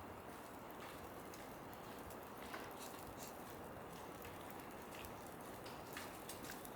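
Falling snow pattering lightly: irregular soft ticks scattered over a steady low hiss.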